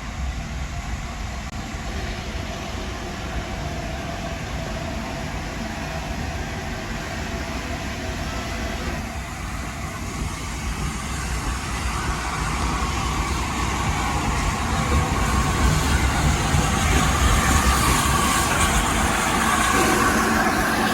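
A train running on the railway: continuous rumbling that grows louder from about halfway through as it draws nearer.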